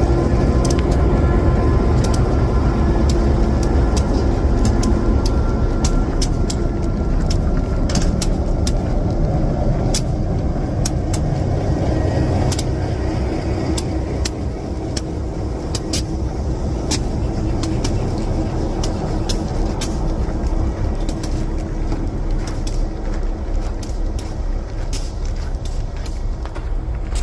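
Diesel locomotive engine running with a steady low rumble that eases off slightly, with scattered short clicks.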